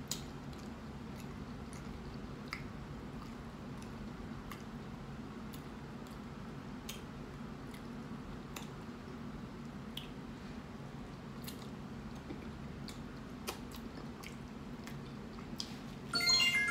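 Scattered soft wet clicks of chewing and of hands handling a flour-tortilla burrito, over a steady low hum. About sixteen seconds in, a phone ringtone starts playing a loud melody, the loudest sound here.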